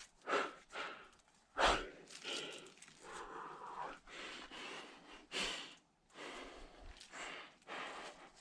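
A climber breathing hard: a series of loud, rushing breaths in and out, close to the microphone, the loudest about two seconds in.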